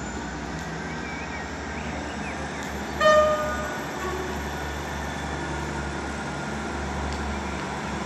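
Diesel multiple-unit train running into the platform with a steady low engine drone, sounding one short horn toot about three seconds in.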